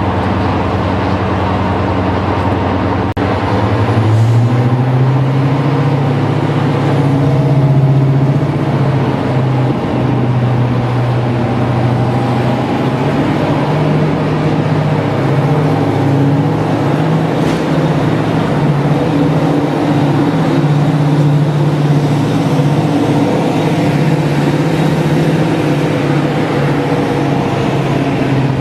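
Heritage diesel locomotive engine running under load, a steady heavy drone. About four seconds in the engine speed rises and it then holds at the higher note.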